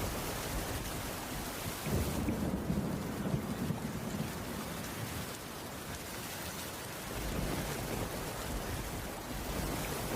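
Steady heavy rain hissing, with a low rumbling swell about two seconds in and another from about seven seconds on.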